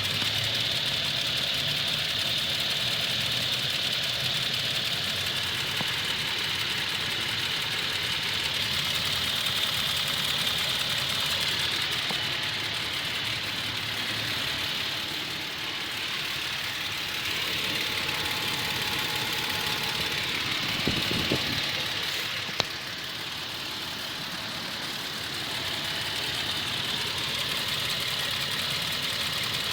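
2011 Toyota Tacoma engine idling at operating temperature with a steady tick, tick, tick from the driver's side of the motor, which the owner takes for a valve or bad lifter. A single sharp click about two-thirds of the way through.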